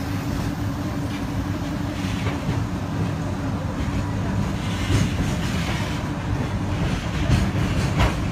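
Passenger train rolling along the track, heard from inside a carriage: a steady low rumble. A few sharper knocks from the wheels come about five seconds in and near the end.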